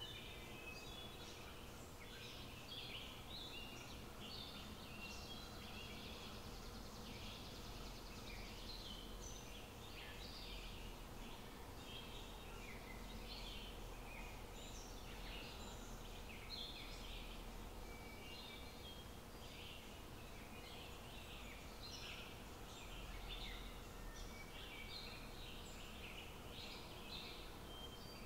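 Many birds chirping in short, irregular high calls, over a faint steady low background rumble.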